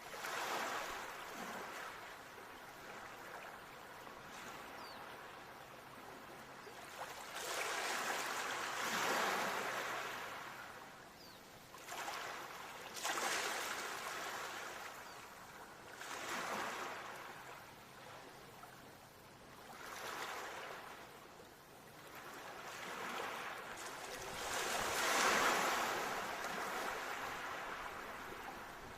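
Ocean waves breaking and washing ashore, swelling and falling back in surges every few seconds, the biggest one near the end.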